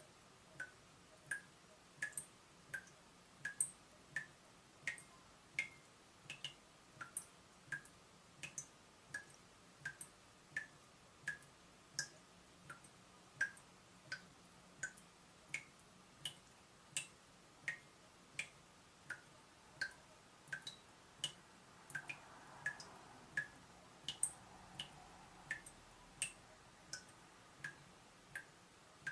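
Leaking tap dripping steadily: single water drops landing about three every two seconds, each a short plink, some louder than others.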